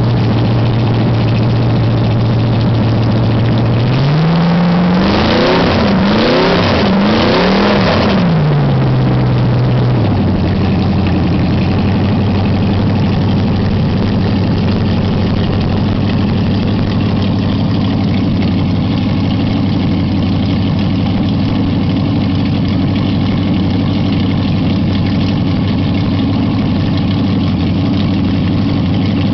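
Edelbrock-equipped Ford V8-60 flathead race engine running. It idles steadily, is blipped up and down about four times, then settles back to a steady, lower idle.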